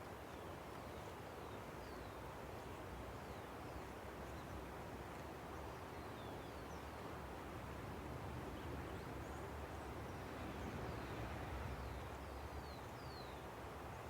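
A river running with a steady rush, with faint, short, high bird chirps that slide downward, scattered throughout.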